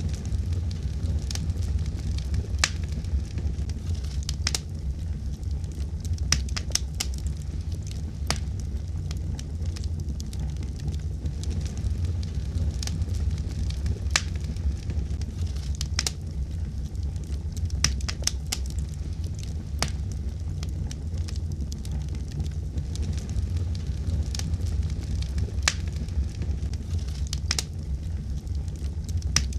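Wood fire crackling in a fireplace: scattered sharp pops and snaps, several a second, over a steady low rumble of burning.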